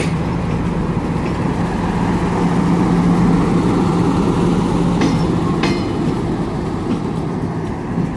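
Siemens Desiro diesel multiple unit passing close by on the rails, its diesel engine running with a steady hum that swells about three seconds in. Two brief high squeals come about five and six seconds in.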